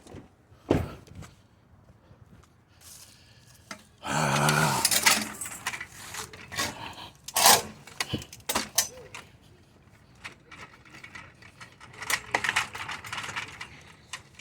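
Metal bed-frame parts being handled: clanks, clinks and scrapes of steel against steel, with a louder scraping stretch about four seconds in.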